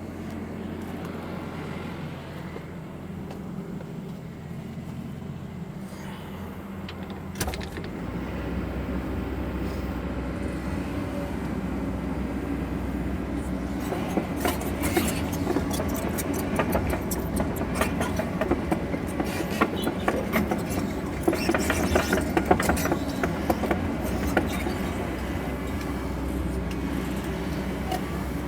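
Sany mini excavator's diesel engine running. A single clunk about seven seconds in, after which the engine pulls harder under hydraulic load. From about halfway, quick metallic clanking and rattling from the machine working.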